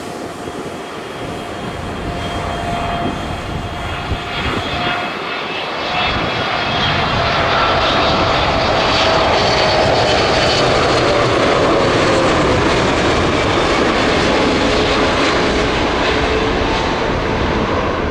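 Boeing 777 freighter's GE90 turbofan engines on landing approach, growing louder over the first several seconds and then holding loud and steady, with a whine that slowly falls in pitch as the jet passes.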